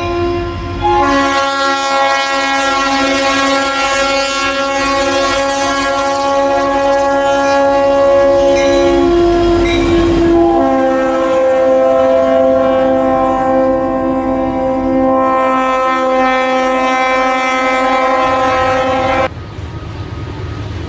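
Diesel locomotive's multi-chime air horn blowing a chord of several notes at once in long blasts: a short break about a second in, a brief change in the chord about ten seconds in, then it cuts off near the end, leaving the rumble of the passing train.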